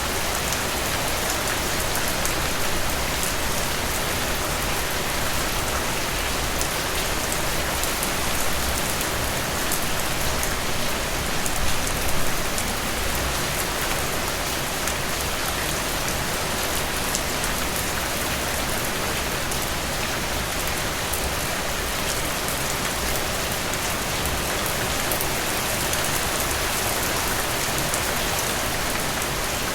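Steady, even rain, with a few slightly louder moments about twelve seconds in.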